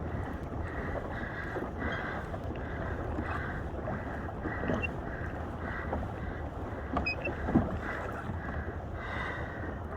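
Wind buffeting the microphone and water washing around a fishing kayak under way on an ocean swell, with a few light knocks on the hull or gear. The sharpest knock comes about three-quarters of the way through.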